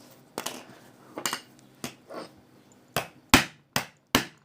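A phone being struck and broken apart: a few sharp knocks and cracks, then a quicker run of harder hits from about three seconds in.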